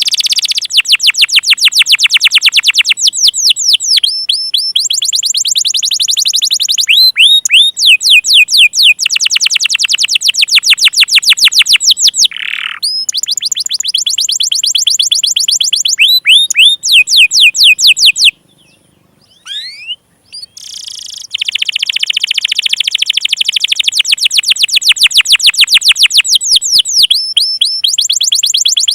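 Domestic canary singing a long, loud song of fast rolling trills, each phrase a rapid run of repeated notes, with a pause of about two seconds past the middle. This is a lure song of the kind used to coax young or silent canaries into singing.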